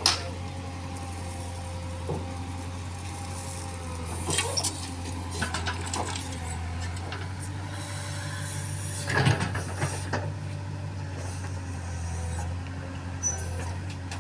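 Diesel engine running steadily, with scattered knocks and clatters: one right at the start, a cluster around four to five seconds in, and the loudest about nine seconds in.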